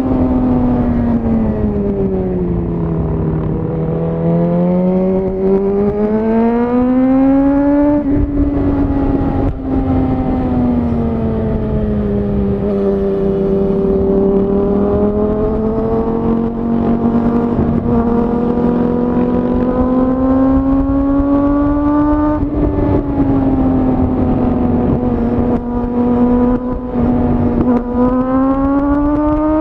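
Suzuki GSX-R1000R inline-four engine through a Yoshimura R-11 SQ exhaust, heard on board while riding: the note falls and rises smoothly several times as the throttle is eased off and opened again. There are brief breaks in the note about eight seconds in and again past twenty seconds, over a steady low rush of wind and road.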